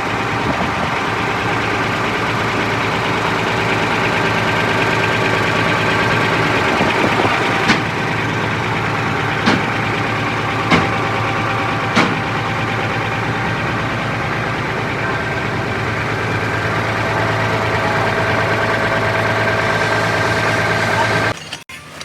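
An engine or motor running steadily at an even pitch, with four sharp clicks or taps partway through. It stops abruptly near the end.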